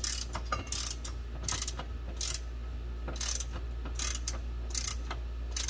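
Hand ratchet clicking in repeated back-strokes, roughly one stroke every half second to second, as a bolt is turned with a 10mm deep-well socket on extensions.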